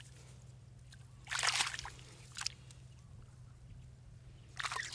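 Shallow water sloshing and splashing in a few short bursts, the loudest about a second and a half in, with another near the end. A low steady hum runs underneath.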